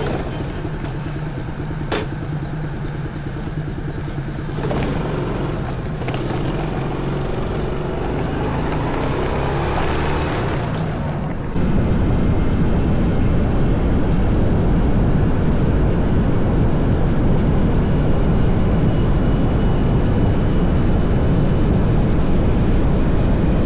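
Daelim Citi Ace motorcycle engine running steadily while riding, with road and wind noise. About halfway through the sound changes abruptly to a louder, duller rumble.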